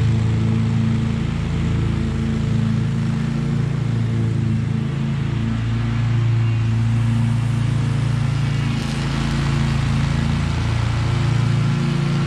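Husqvarna V554 stand-on zero-turn mower running steadily under load while mowing, its engine note wavering slightly up and down.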